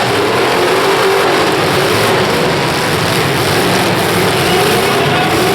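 Several demolition derby cars' engines revving at once, loud and continuous, their pitches rising and falling over each other.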